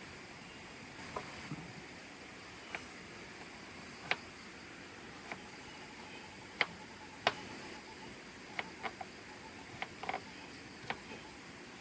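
Steady hiss of rain and flowing river water, with irregular sharp ticks and taps of drops scattered through it, a few louder than the rest.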